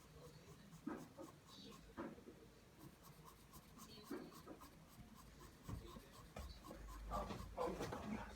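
Pencil drawing lines on paper, the graphite scratching in separate short strokes every second or two, then a quicker run of strokes near the end.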